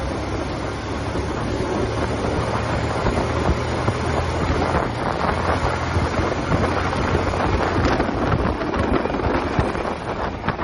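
TVS Apache RTR 180 motorcycle's single-cylinder engine running steadily while riding, with heavy wind noise on the microphone.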